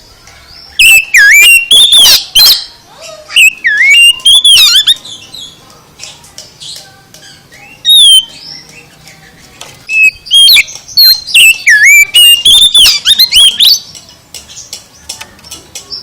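Oriental magpie-robin (kacer) singing loudly in several bursts of fast, sweeping whistled phrases mixed with harsh notes, with short pauses between bursts.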